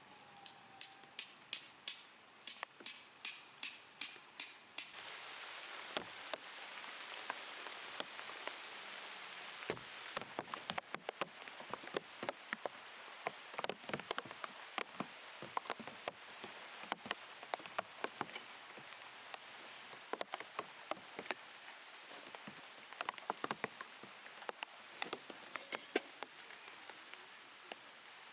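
Rain falling steadily, with irregular sharp drops tapping on the plastic wrapped over the camera. In the first five seconds, a quick run of about a dozen evenly spaced sharp knocks, roughly three a second, stands out above the rain.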